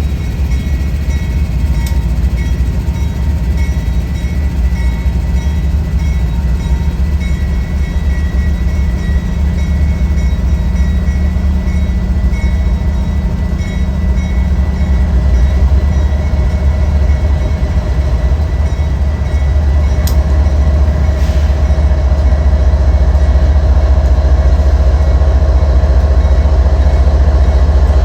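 Train running by with a steady, heavy low rumble that grows louder through the second half, with faint thin squealing tones above it.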